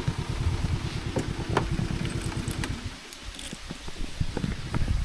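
Motorcycle engine idling with a steady low putter, which stops about three seconds in, leaving only a few faint clicks.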